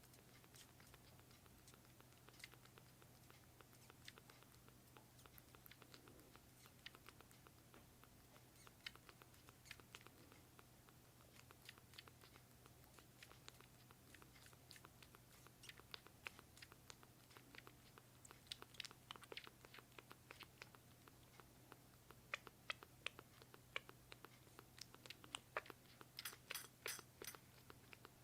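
Kitten feeding on milk: faint, quick wet clicking and smacking of its mouth, the clicks coming thicker and louder over the last few seconds.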